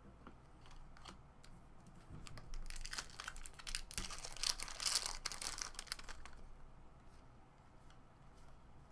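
A 2017 Topps Series 1 baseball card pack being torn open, its wrapper crinkling loudly for about three seconds in the middle, with light clicks of card handling before and after.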